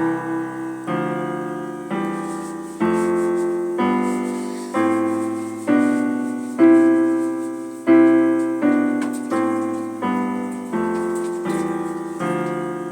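Piano playing open-voiced chords up the C major scale, each scale note's root in the left hand with its third an octave higher in the right hand. About one chord a second, each struck and left to ring and fade before the next.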